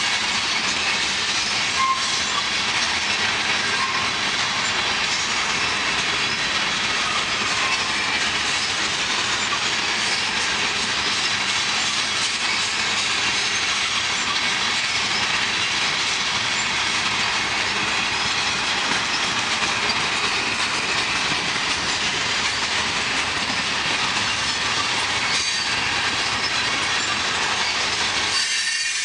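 Freight train cars rolling steadily past at close range: the continuous noise of steel wheels running on the rails, with a clickety-clack over the rail joints.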